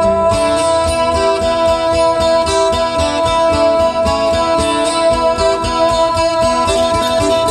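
Music: an acoustic guitar solo of quick plucked notes over a steady held note, with no singing.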